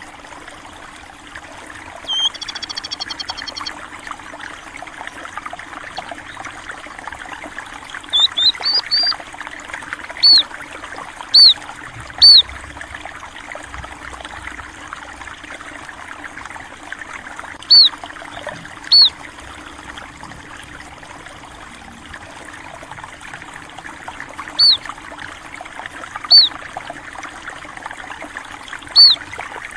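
Flowing water trickling steadily, with sparrows giving single short high chirps every one to several seconds, the loudest sound. A brief buzzy trill comes about two seconds in, and a quick run of chirps about eight seconds in.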